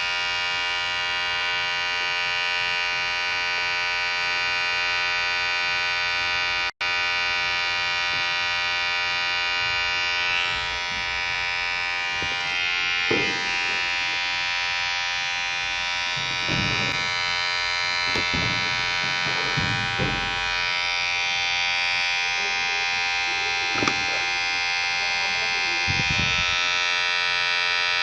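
Electric hair clipper running with a steady vibrating buzz. It cuts out for an instant about seven seconds in, and in the second half its tone wavers several times.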